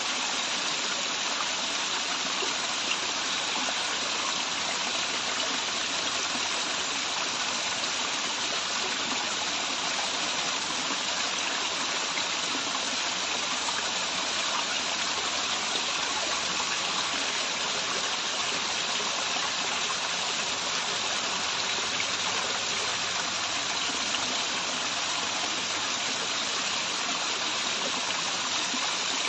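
Waterfall and the stream below it running: a steady rush of falling water, its hiss strongest in the upper range.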